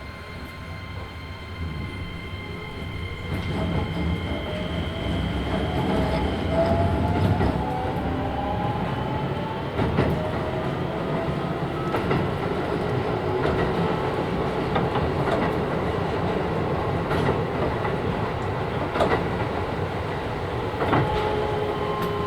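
Keisei 3000 series electric train with a Toyo IGBT VVVF inverter pulling away, heard from inside the car. It starts with steady high inverter tones, then the traction motor whine rises in pitch as the train speeds up. Wheels click over rail joints throughout.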